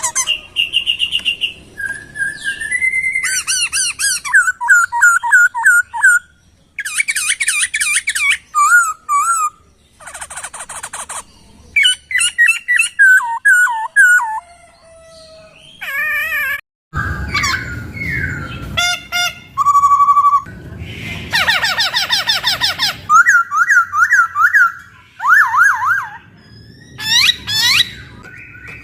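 Poksay (laughingthrush) song played as a masteran: loud, varied whistled phrases, rising and falling notes, rapid trills and chattering runs in quick succession. The segments start and stop abruptly, as in a spliced recording.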